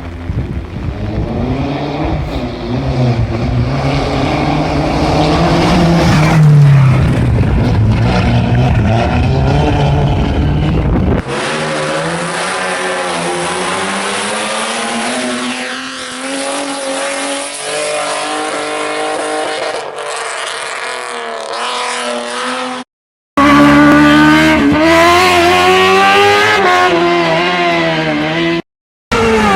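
Rally car engines revving hard, their pitch rising and falling with throttle and gear changes, in three clips cut one after another.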